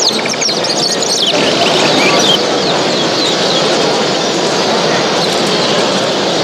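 Many caged show birds chirping and calling at once over a steady, dense background din, the chirps thickest in the first second or so.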